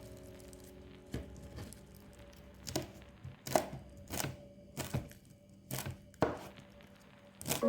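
Kitchen knife chopping on a cutting board: about ten sharp, unevenly spaced strokes, over soft background music.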